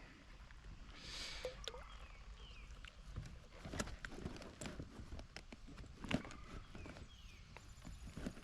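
Scattered light knocks and taps against a kayak, irregular, a few of them sharper about four and six seconds in, with a few faint short falling chirps high above them.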